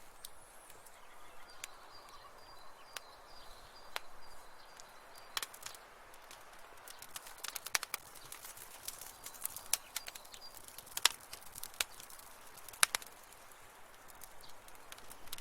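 Wood fire crackling in a fireplace: irregular sharp pops and snaps over a soft hiss, busiest in the second half. A faint thin high whistle comes and goes twice.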